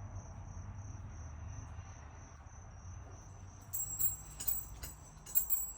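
Keys jangling and clicking in a front door lock, a cluster of sharp metallic clicks from a little past halfway. Before that, a steady thin high-pitched whine sits over a low hum.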